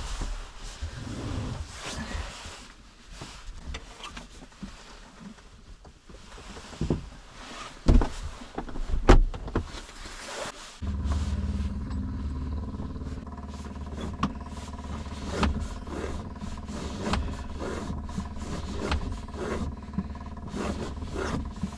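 A few knocks and handling clunks, then about halfway through a steady mechanical hum starts and keeps running.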